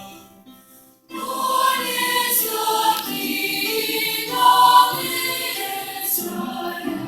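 Youth choir singing, with no clear words; the sound dies away to a short pause and the choir comes in again sharply about a second in.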